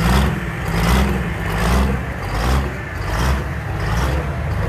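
Turbocharged diesel pulling truck's engine running hard under load, swelling in a regular surge about every 0.8 seconds.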